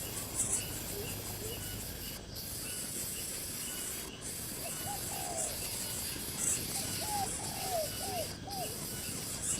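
A few short, arched bird calls, one pair about halfway through and a quick series of four or five near the end, over a steady hiss of insects and outdoor noise.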